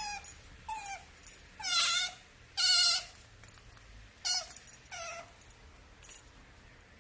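Asian small-clawed otter squeaking: a string of about seven high calls, each falling in pitch, the two longest and loudest warbling, about two and three seconds in.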